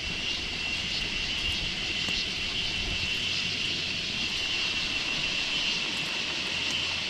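A steady, high-pitched drone over an even hiss, holding level without a break.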